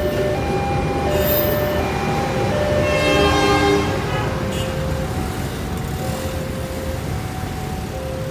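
Level-crossing warning alarm sounding in two alternating tones, repeating steadily over the low rumble of a passing train. A horn blast of about a second sounds around three seconds in.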